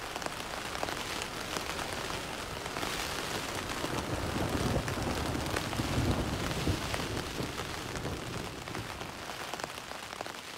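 Rain falling: a dense, even patter of drops, a little louder in the middle.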